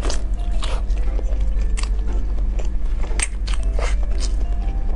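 Close-up eating sounds: biting into and chewing a braised sheep brain wrapped in large intestine, with sharp mouth clicks and smacks at irregular intervals.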